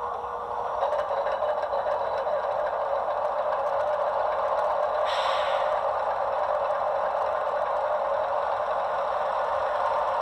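ESU LokSound decoder playing a GE GEVO diesel prime-mover sound through the HO-scale ET44C4 model's small speaker, swelling over the first second after start-up and then running at a steady idle. A brief higher hiss comes about five seconds in.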